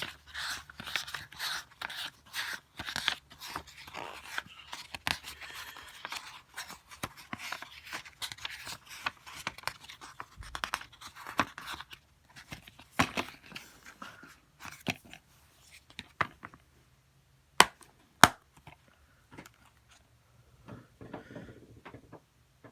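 Handling noise from a DVD case and its paper inserts: a run of rustling and small plastic clicks, then two sharp snaps about two-thirds of the way in, then quieter fumbling.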